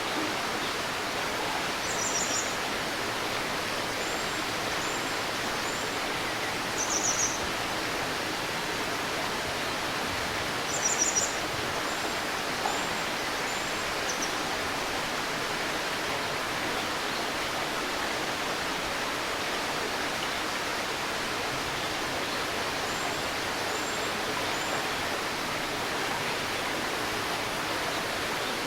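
A river stream babbling steadily, with a bird calling now and then on top: short high trills about two, seven and eleven seconds in, and soft chirps in between.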